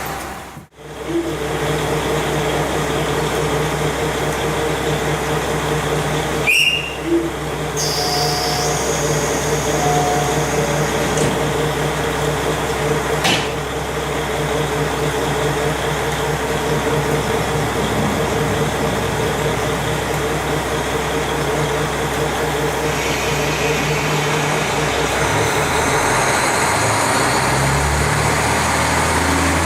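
KiHa 40 diesel railcar under way, heard through a fully open window: a steady diesel engine drone mixed with wheel and rail noise. In the last few seconds the engine note climbs in steps.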